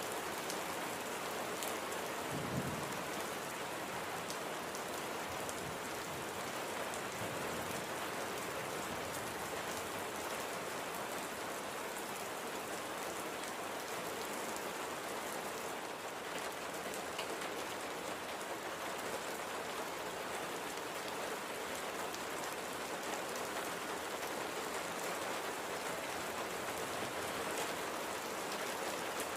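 Steady rain falling and pattering on surfaces, with scattered individual drop ticks and a brief low thump about two and a half seconds in.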